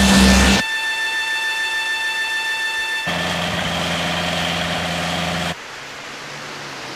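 Animated car sound effects. A loud rush with a low rumble cuts off about half a second in, under a steady high electronic tone that holds until about three seconds in. Then a car engine's steady low hum takes over and stops sharply a couple of seconds later, leaving a quieter hiss.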